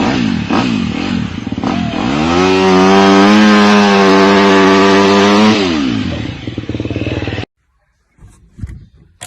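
An engine revving: its pitch rises about two seconds in, holds high for about three seconds, then drops back. The sound cuts off abruptly near the end.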